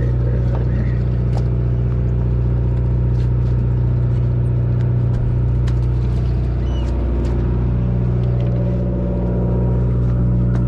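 Fishing boat's engine running, a steady low drone, with a few faint clicks over it.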